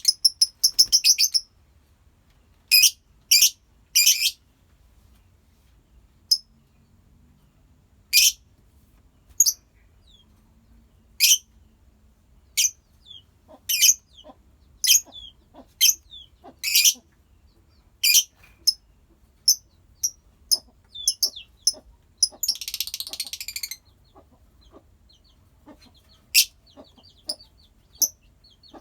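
A colony of lovebirds giving short, high-pitched chirps one after another at uneven intervals, with a brief burst of rapid chatter about three-quarters of the way through.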